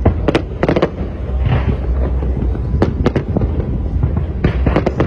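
Fireworks going off: clusters of sharp bangs, several in quick succession near the start, around the middle and near the end, over a steady low rumble.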